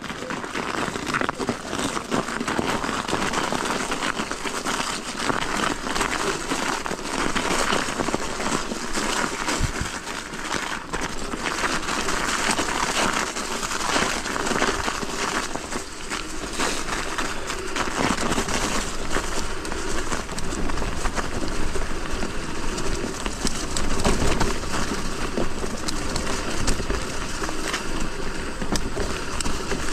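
An electric mountain bike riding over a snowy trail: a steady rush of tyre and wind noise with constant crackling of snow under the tyres.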